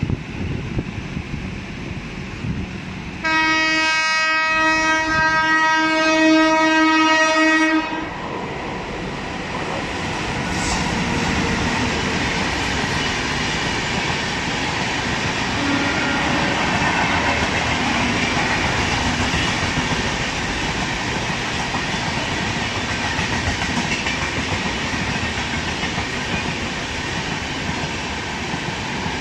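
WAP-7 electric locomotive sounding its horn in one long blast of about four and a half seconds as it approaches. Its passenger coaches then run through the station at speed without stopping, a steady rumble of wheels on rail.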